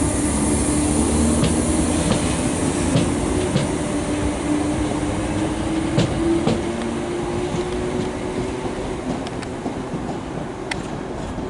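A train running through the station, its wheels clicking irregularly over rail joints, with a steady mechanical hum that fades as the overall sound slowly dies away.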